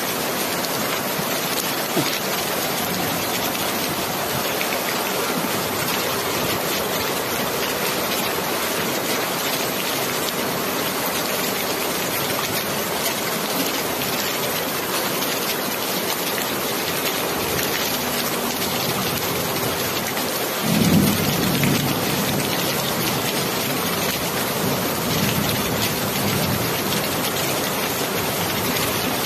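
Steady rain falling, an even hiss, with a low rumble of thunder rising about two-thirds of the way through and a fainter one a few seconds later.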